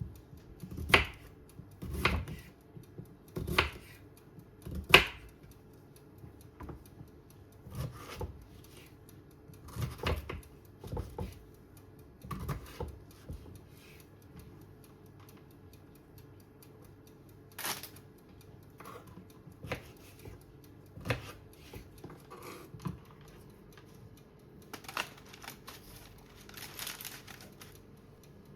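A series of irregular knocks and clicks from objects being handled, the loudest within the first five seconds, then sparser taps with long gaps.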